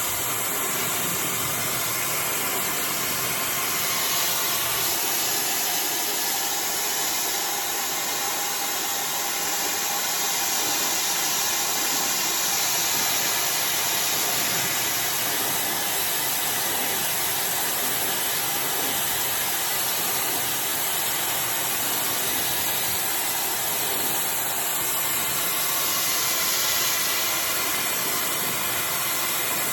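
iDryer AI Pro Style hair dryer blowing hot air through hair: a steady rushing of air with a faint motor whine under it. The tone of the airflow shifts a little about four seconds in and again near the end as the dryer moves.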